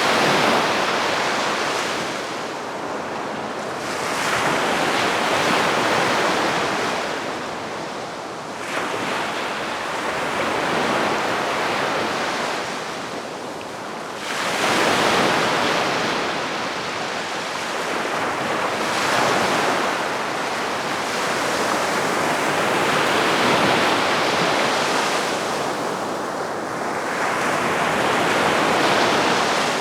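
Calm sea waves washing onto the shore, the surf swelling and fading in a slow rhythm of about one wave every four to five seconds.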